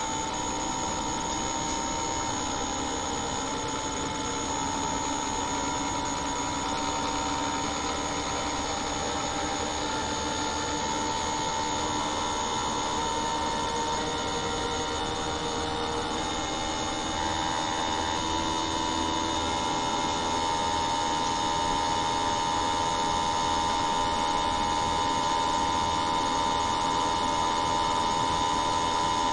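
A machine running steadily, with several whining tones that step up in pitch in small jumps and a thin high whine above them. It grows slightly louder towards the end.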